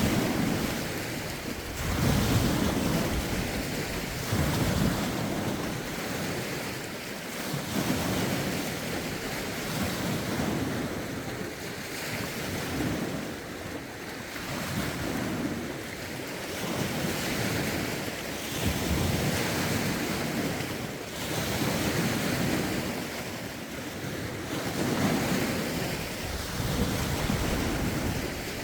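Lake waves washing in, surging every two to three seconds, with gusty wind buffeting the microphone.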